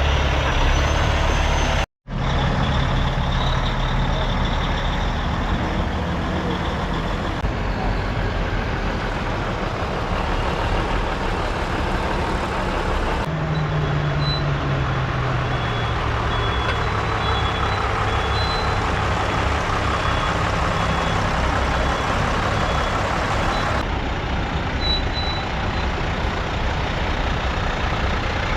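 Heavy diesel truck engines running, in several short cut-together clips. One engine's pitch drops about halfway through, and a faint high beeping sounds through the later part.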